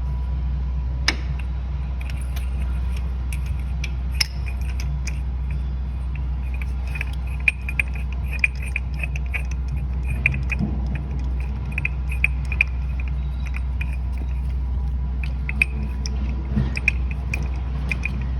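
Small metallic clicks and light rattles of hand tools fitting a new spark plug into the engine, with a run of quick ticks through the middle, over a steady low hum.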